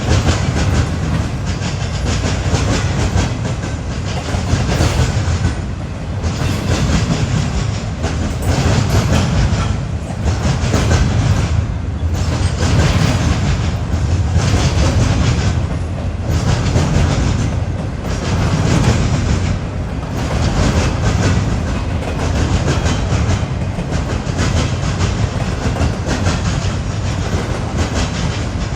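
Freight train cars rolling past with wheels clacking over the rails. There is a steady heavy rumble that swells and dips about every two seconds.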